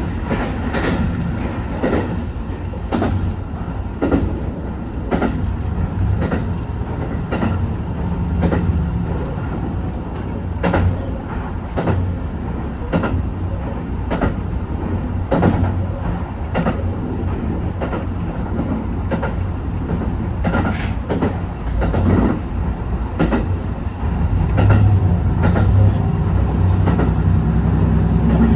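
HB-E210 series hybrid diesel train running along the line, its wheels clicking over rail joints at uneven intervals over a steady low drone. The low drone grows louder near the end.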